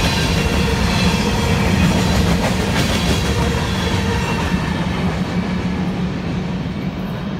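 CSX covered hopper cars rolling past: a steady rumble of steel wheels on rail with faint thin squeal tones, growing softer and duller over the last couple of seconds as the end of the train draws away.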